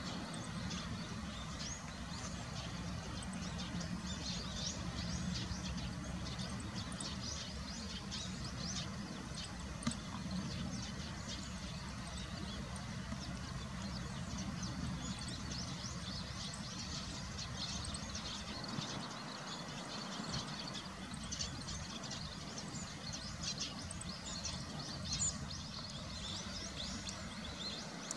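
Small birds chirping and twittering in many short, high, thin calls over a steady low background rumble.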